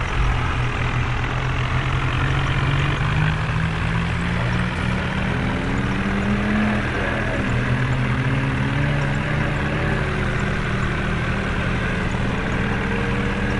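Tractor's diesel engine running steadily, its pitch rising and falling as the revs change.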